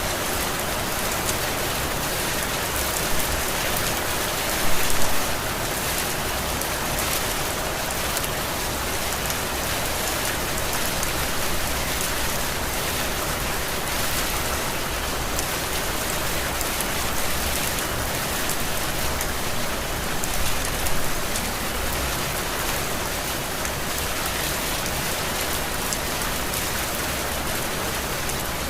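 Heavy tropical rain falling steadily, a dense even hiss of drops on surfaces, with a few brief louder swells of spatter.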